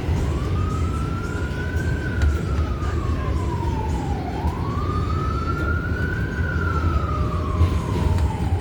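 A wailing emergency-vehicle siren, its pitch sweeping slowly up and down about every four seconds, over the steady low rumble of a subway train in motion.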